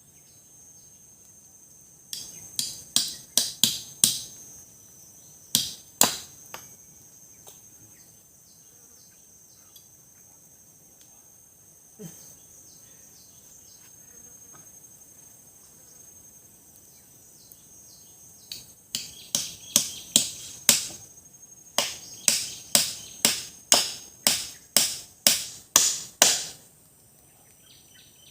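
Repeated sharp blows of a tool striking wood, in runs of strikes about two a second: a short run, a pair, then a long run near the end. A steady high insect drone runs underneath.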